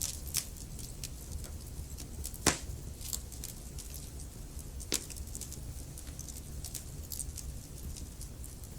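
Wood fire crackling in a fireplace: irregular sharp pops and snaps over a low steady rumble, with a louder pop about two and a half seconds in and another about five seconds in.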